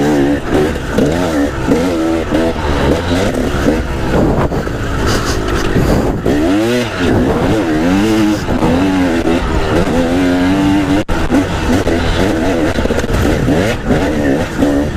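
Two-stroke dirt bike engine revving hard off-road, its pitch climbing and dropping repeatedly as the throttle is worked through the gears. The rider believes the bike's expansion chamber is dented and its power band feels off.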